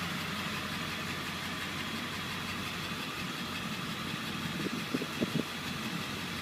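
Ford 7.3L Power Stroke V8 turbo diesel idling steadily, heard from inside the cab, with a few brief soft knocks about five seconds in.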